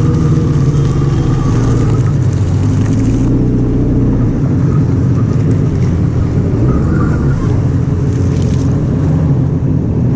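Jet ski engine running under way, its pitch shifting a little as the throttle changes, with water spray hissing over it at times.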